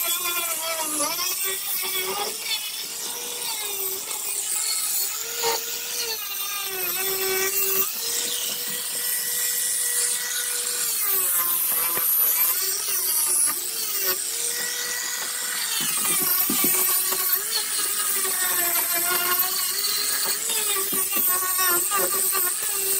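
Electric grinder running against a fibreglass boat hull, its motor whine dipping in pitch each time it is pressed into the work and rising again as the load eases, over a steady gritty hiss.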